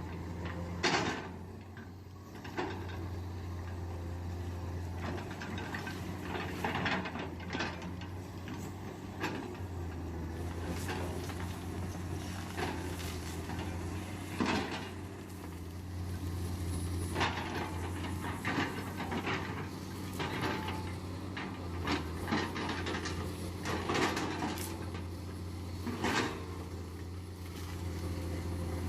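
Heavy diesel earthmoving machinery running with a steady low engine drone, with irregular knocks and clanks over it, the sharpest about a second in, typical of an excavator bucket working rock and sediment.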